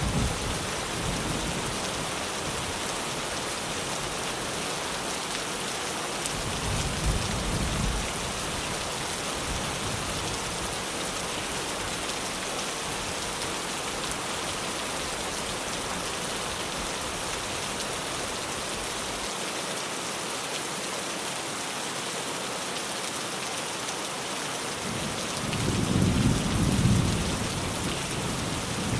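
Heavy rain falling steadily on a tin roof, with a low roll of thunder about six seconds in and a louder one near the end.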